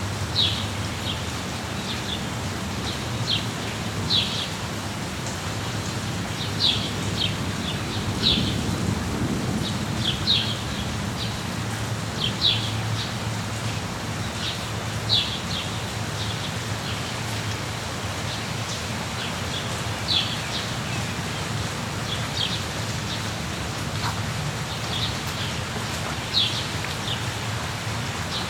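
Steady rain with a low rumble beneath it, and birds calling in short high chirps, often in quick pairs or clusters, every second or two.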